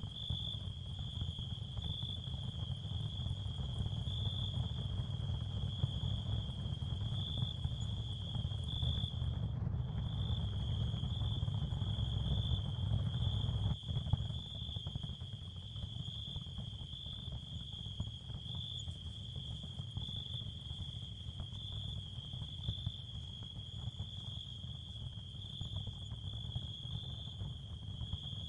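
Ambient sound-therapy field with no narration: a steady, high, cricket-like chirring over a low rumble. The chirring drops out briefly about ten seconds in, and there is a small break about fourteen seconds in.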